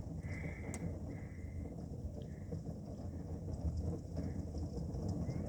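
Steady low rumbling noise of a rainstorm, rain and wind, with a few faint short high tones.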